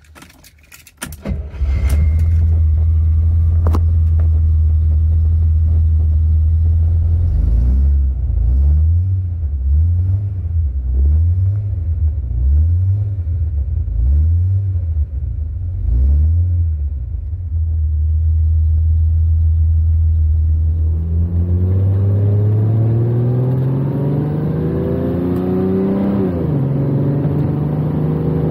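A 1982 Ferrari 400i's V12 cold-starts: it cranks briefly and catches about a second and a half in, then idles. It is blipped repeatedly, the revs rising and falling about once a second, then settles back to a steady idle. Near the end it pulls away, the revs climbing under acceleration and dropping once at a gear change.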